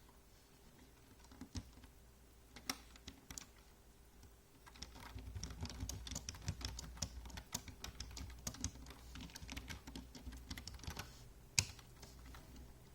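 Typing on a keyboard: a few scattered keystrokes, then a quick, steady run of typing from about five seconds in to about eleven, and one louder key strike near the end.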